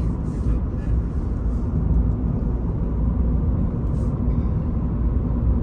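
Pickup truck with a camper driving on the highway: a steady low rumble of road and engine noise.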